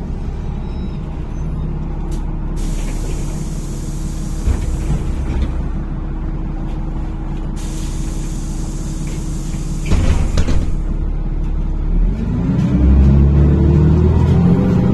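NefAZ-5299 city bus heard from inside: engine running with a long hiss of air from the pneumatics, a knock about ten seconds in, then the engine pulling away, rising in pitch over the last few seconds.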